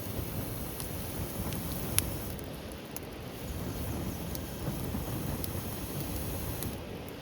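Rainy outdoor ambience: a steady low rush with scattered sharp ticks and crackles, one louder about two seconds in.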